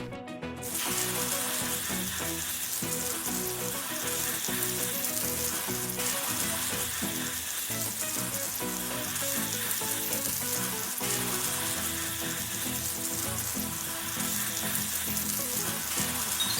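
Arc-welding sound effect: a steady crackling sizzle that starts about half a second in and carries on without a break, over faint background music.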